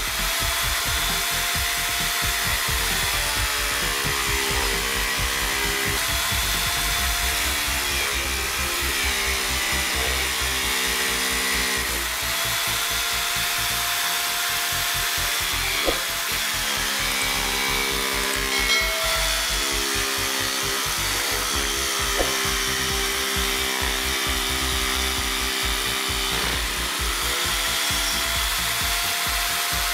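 A jigsaw mounted under a saw table runs and cuts a wooden board. The motor's whine sinks in pitch and recovers every few seconds as the blade takes and eases off the load, over a fast rattling chatter from the reciprocating blade. There are a few sharp clicks.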